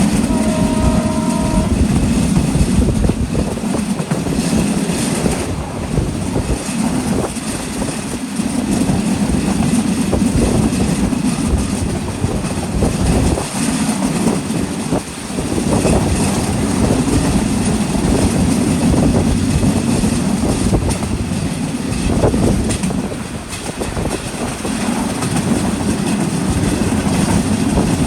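Passenger train rolling into a station at close range: a steady loud rumble of carriages with wheels clattering over the rail joints. A brief tone sounds right at the start.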